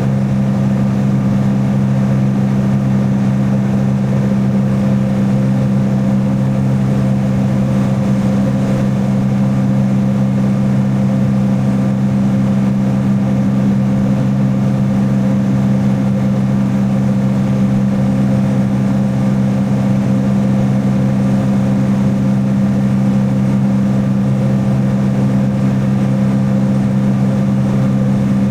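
Jet ski engine running at a steady speed: a constant low drone that holds the same pitch throughout.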